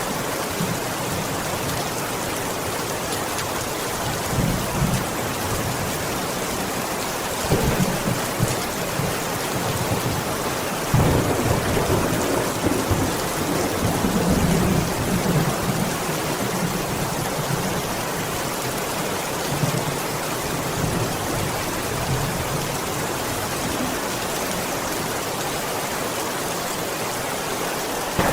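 Steady rainfall, with thunder rumbling low several times, loudest in the middle stretch.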